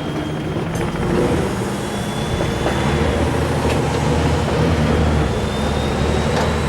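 Truck engine running loudly, its pitch rising and falling as it revs.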